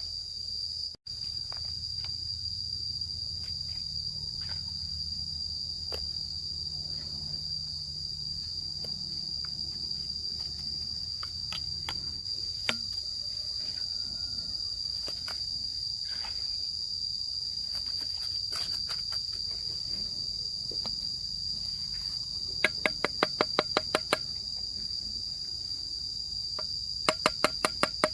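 Steady high-pitched insect chorus of crickets or cicadas. Near the end come two quick runs of rapid sharp clicks, each about a second or more long.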